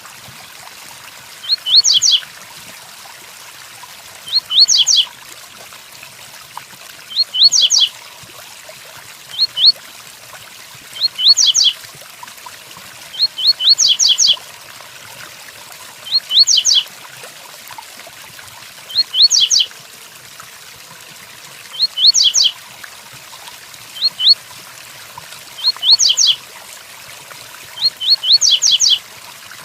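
Double-collared seedeater (coleiro) singing the tui-tui song: short phrases of two to five quick rising high notes, repeated every two to three seconds, over a steady hiss of rain.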